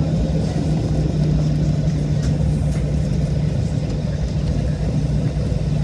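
Cabin noise inside a Boeing 737-700 on the ground just after landing: a steady low rumble from the CFM56 jet engines and the rolling airframe, with a steady hum running through it.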